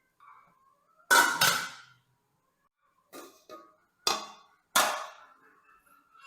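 Kitchenware being handled: about six sharp clatters and knocks, falling roughly in pairs, with the loudest pair about a second in.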